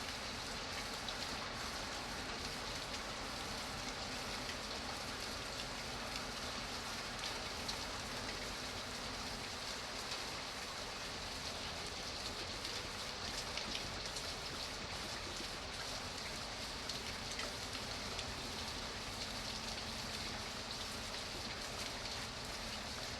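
Steady rain falling: an even hiss of many drops, with individual drop ticks scattered through it.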